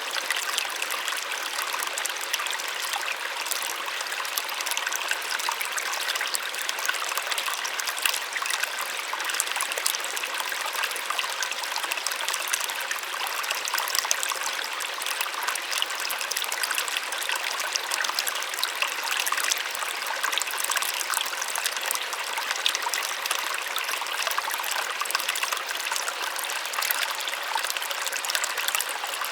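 Small waterfall splashing and pouring steadily, a bright even rush of falling water with fine splashy detail and little low rumble.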